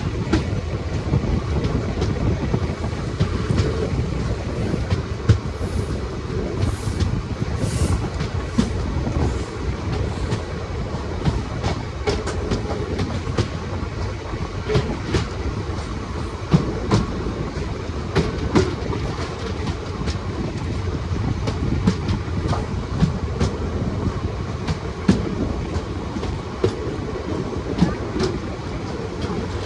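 Passenger train running on the track: a steady rumble with many irregular clicks and knocks of the wheels over the rails.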